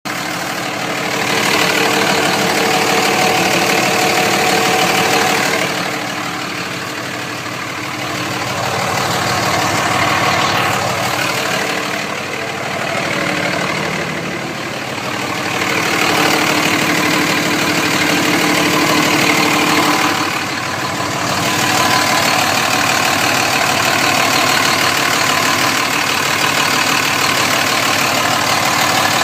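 Cummins diesel engine running at about idle, with an odd noise in it that the owner cannot name. The sound swells and eases several times.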